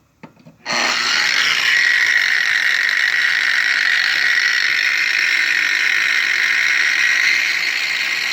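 Makita 13-amp 4.5-inch angle grinder switched on at its lowest variable-speed setting (1), starting up about a second in and then running steadily with no load, a constant whine.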